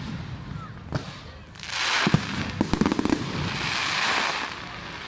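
Fireworks going off: a scatter of sharp cracks, then a loud hissing rush about one and a half seconds in with a quick flurry of crackling bangs, followed by a second hiss that swells and fades.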